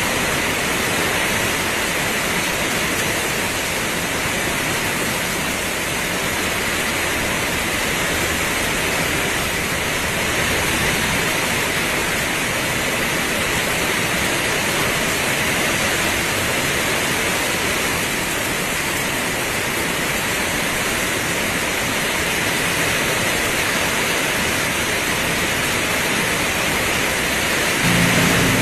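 Heavy rain pouring steadily, an even hiss with no let-up. Just before the end a low engine hum from a vehicle comes in under the rain.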